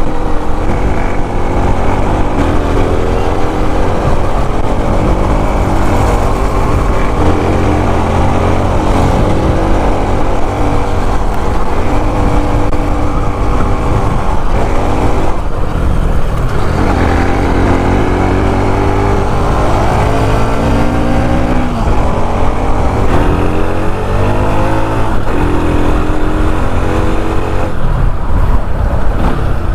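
Bajaj Pulsar NS200's single-cylinder engine heard through its exhaust while riding, its pitch climbing again and again as it accelerates through the gears.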